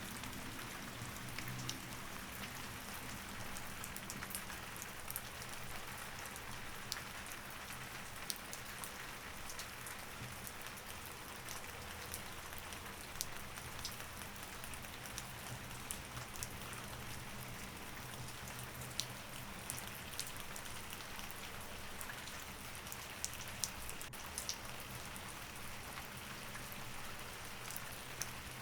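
Steady rain falling, with scattered sharper ticks of individual drops, over a faint low hum.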